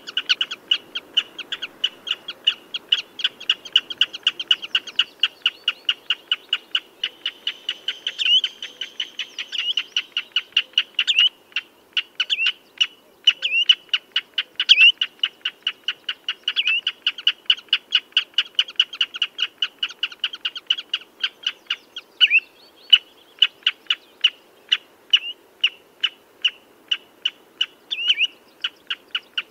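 Common redshank calling: a rapid, continuous series of short, high piping notes, about three to four a second, with some louder down-slurred notes among them.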